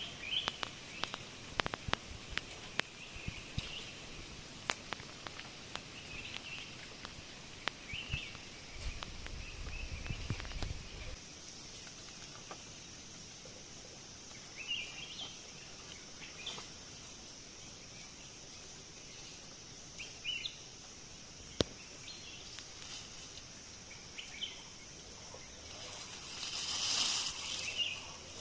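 Forest ambience with scattered short bird chirps, and many sharp clicks and rustles in roughly the first half. A hissing sound swells briefly near the end.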